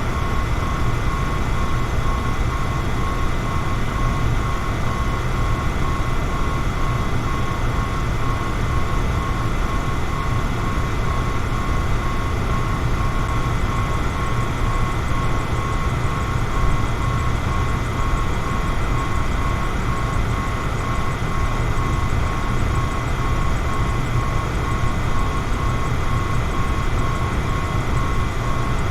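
Electric fan running steadily: a continuous whoosh of moving air with a deep rumble, and a faint steady motor whine over it.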